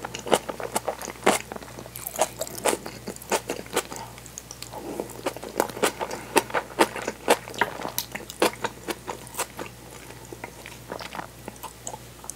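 Close-miked chewing of kimchi and tofu: irregular crunches and wet mouth clicks, several a second, with softer squelching in between.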